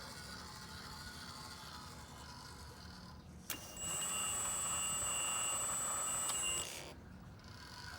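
The electric hydraulic pump of a radio-controlled model excavator starts with a click and whines steadily at a high pitch for about three seconds, then cuts off sharply as the control is released.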